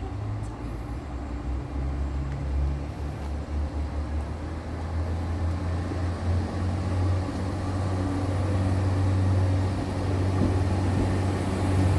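Diesel multiple-unit train's engine running with a steady low drone, growing gradually louder.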